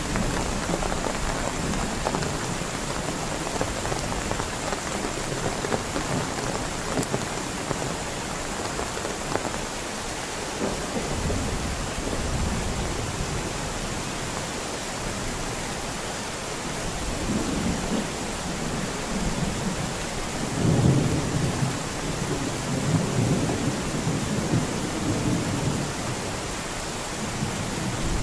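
Heavy rain falling steadily, with low thunder rumbling and rolling in the second half, loudest about three-quarters of the way through.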